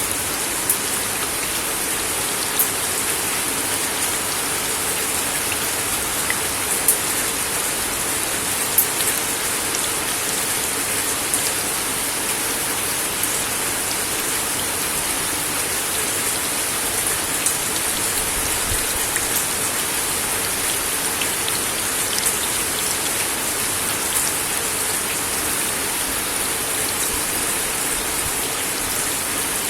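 Steady rain falling on a wooden deck, an even hiss with individual heavier drops tapping sharply every second or so.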